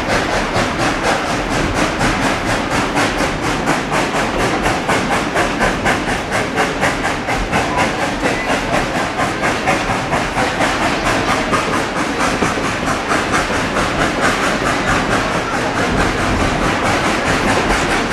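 Narrow-gauge steam train running along the track, heard as a steady, fast, even clatter that repeats several times a second.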